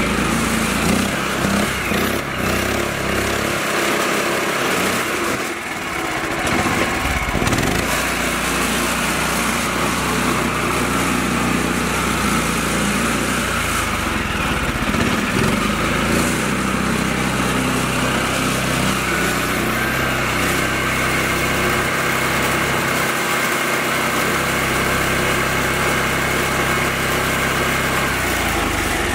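Mini tractor's small engine running steadily, easing off briefly about five seconds in, then running on evenly.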